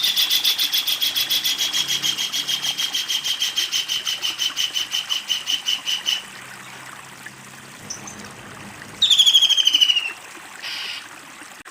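Kingfisher giving its long, loud cackling call: a rapid run of about seven repeated notes a second, held for about six seconds. After a pause comes a short, faster burst of notes that falls in pitch, then a brief note near the end.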